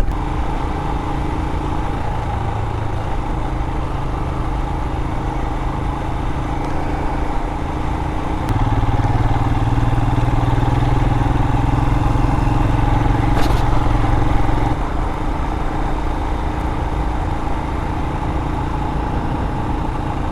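Royal Enfield Himalayan's single-cylinder engine running as the motorcycle rides along. The engine note is steady, opens up louder from about 8 to 15 seconds in, then settles back.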